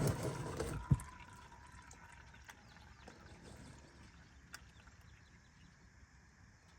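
Engine oil draining from a Honda Rancher 350 into a small tub, running and dripping faintly; the owner thinks the oil has gas in it. In the first second there is a brief rustle of handling, ending in a sharp knock.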